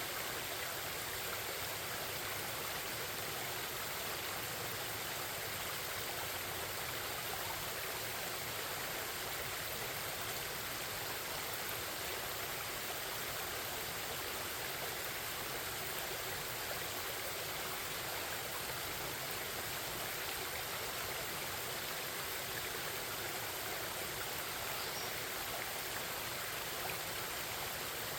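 Forest stream babbling and rushing steadily.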